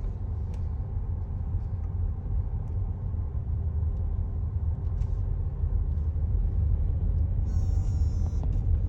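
Steady low rumble of a car's engine and tyres heard inside the cabin while it creeps along at low speed. Near the end, faint high tones from the car radio come in.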